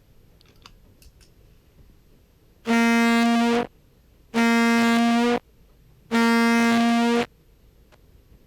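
Recorded contrabass clarinet sample played through a compressor pedal chain: a few faint key clicks, then three tongued notes on the same pitch, each about a second long with a sharp attack and an even, squashed loudness. The compression leaves the tonguing attack and key clicks unchanged.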